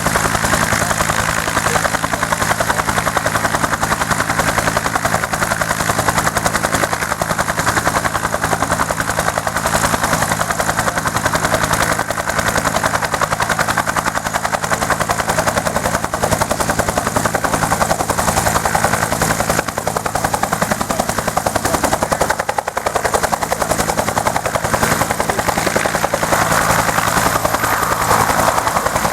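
A Bell UH-1 Huey helicopter running steadily, its rotor beat and single turboshaft engine sounding without a break.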